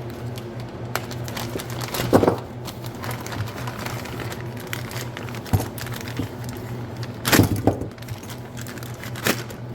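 Handling noise: scattered clicks and knocks, louder about two seconds in, twice around seven and a half seconds, and near the end, over a steady low hum.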